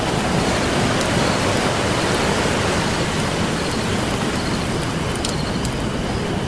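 Steady wash of ocean surf with a wood campfire crackling over it: a few sharp pops, one about a second in and a couple more near the end.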